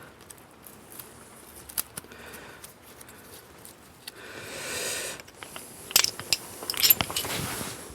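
Small metallic clicks and scrapes of a spanner and feeler gauge working on the valve rocker adjusters while setting valve clearances, with a few sharper clicks near the end.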